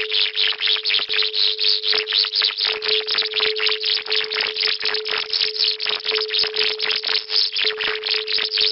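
Electronic sound-healing track: one steady mid-pitched tone under a fast, even pulsing hiss, about five pulses a second.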